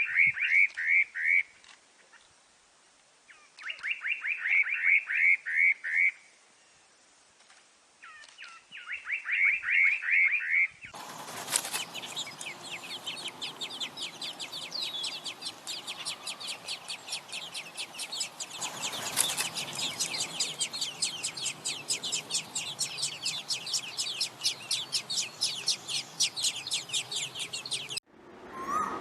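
Bird song: a bird sings three short phrases of quick falling notes, each about two seconds long. About eleven seconds in, a different recording takes over with continuous fast chirping over a background hiss.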